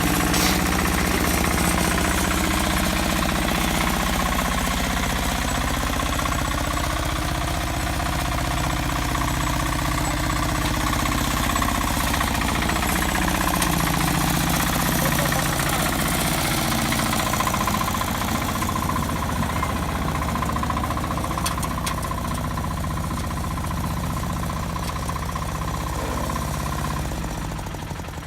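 A motor vehicle's engine running steadily with a rough, knocking beat, then dying away near the end.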